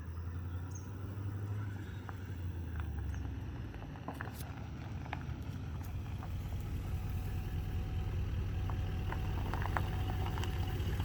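Pickup truck engine running at low speed as the truck slowly approaches, a steady low hum growing gradually louder, with scattered light clicks.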